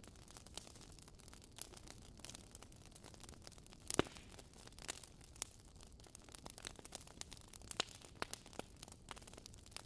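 Wood fire crackling: a faint, irregular run of small pops and snaps over a low hiss, with one louder pop about four seconds in.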